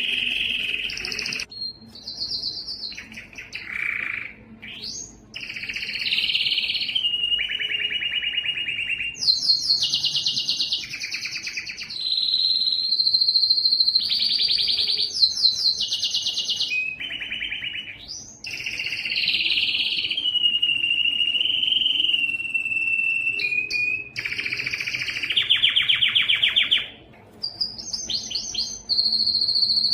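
Yellow canary singing a continuous song of rapid rolling trills alternating with long, steady whistled notes, changing phrase every few seconds.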